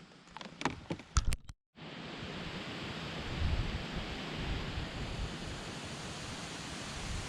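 A few light knocks, then the sound cuts out for a moment and gives way to steady wind noise on the microphone: an even hiss with irregular low buffeting.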